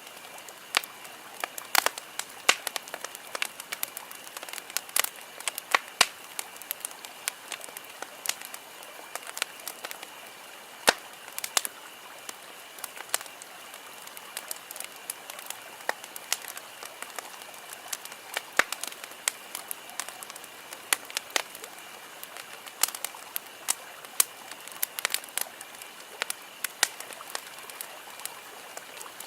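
Wood campfire crackling: irregular sharp pops and snaps, several a second, over a steady soft hiss of burning.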